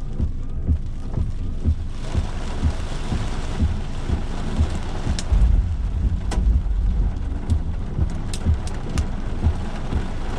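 Rain and gusting storm wind around a vehicle near a tornado. Low buffeting rumbles come over and over, scattered sharp taps of drops cut through, and a heavier rumble builds about five seconds in.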